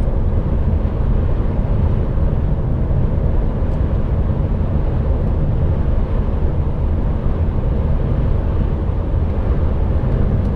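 HGV container truck driving at road speed, heard from inside the cab: a steady low engine and road rumble.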